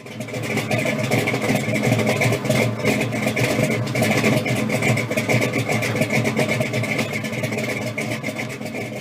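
The 389 V8 of a 1964 Pontiac GTO with Tri-Power carburettors, running steadily with a dense, even firing rhythm; it starts abruptly and cuts off.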